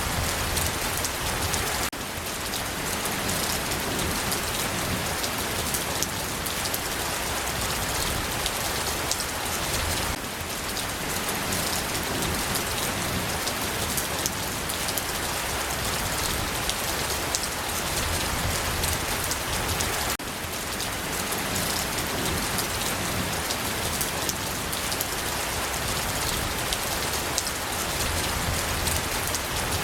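Steady rain falling on a surface, a dense patter of individual drops, with slight dips in level about every ten seconds.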